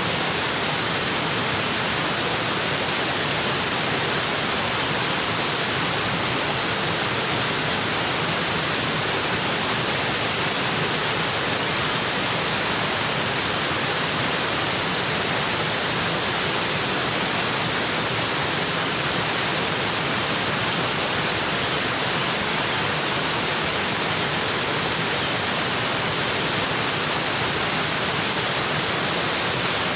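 Waterfall: water falling onto rocks, a steady, even rush with no breaks.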